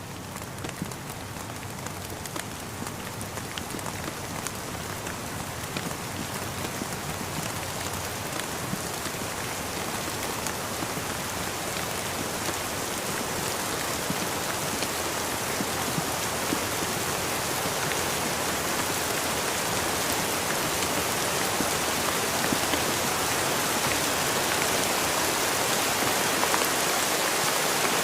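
Steady rain falling, a dense patter of raindrops tapping, growing gradually louder throughout.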